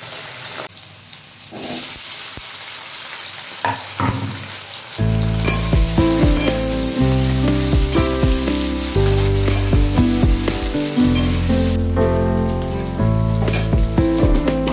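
Fish and then potatoes frying in hot oil in a wok: a steady sizzle, with scrapes and taps of a metal spatula as the food is stirred. About five seconds in, background music with sustained low notes comes in over the sizzle.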